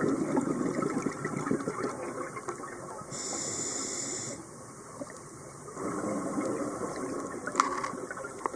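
Bubbling, rushing water noise as heard underwater on a dive camera. It is louder for the first couple of seconds, eases off, and picks up again past the middle.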